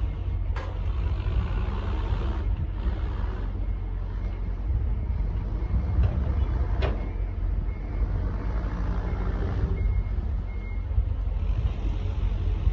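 Truck engine idling with a steady low rumble, with two sharp knocks and faint short high beeps off and on in the second half.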